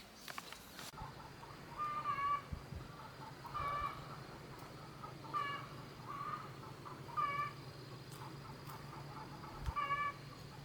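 An animal calling five times at fairly even intervals, each call short and pitched, over a steady low hum.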